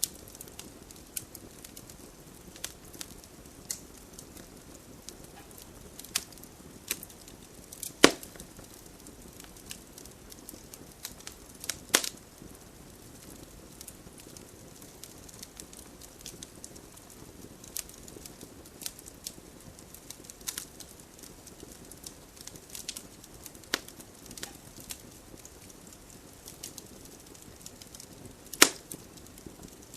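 Wood campfire burning: a soft steady hiss of flames with irregular sharp crackles and pops. The loudest pops come at about 8, 12 and 28 seconds in.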